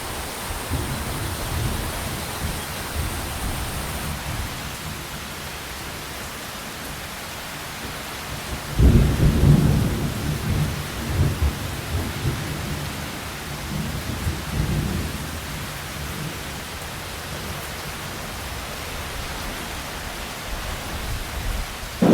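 Steady rain with rolling thunder: a low rumble in the first few seconds, a louder peal about nine seconds in that rumbles on for several seconds, and a sudden loud thunderclap at the very end.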